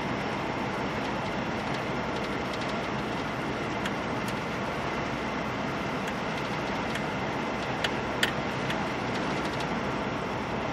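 Steady road noise of a vehicle driving, with two short sharp ticks about eight seconds in.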